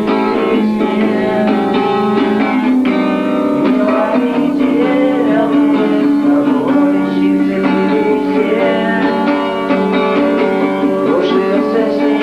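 Guitar music: a run of plucked guitar notes over a steady sustained accompaniment.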